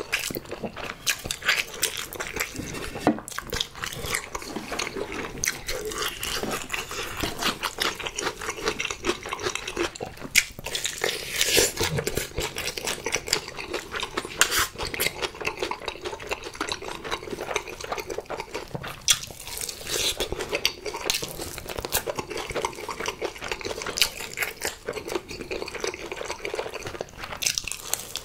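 Close-miked chewing and biting of sauce-coated spicy fried chicken, with many quick clicks and mouth noises.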